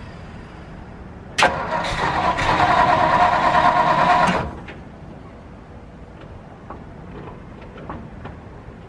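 1958 Ford F100's 292 Y-block V8 being cranked and firing on starter fluid in a cold start after sitting over a year: it starts suddenly about a second and a half in, runs loud for about three seconds, then cuts off abruptly. A few faint clicks follow.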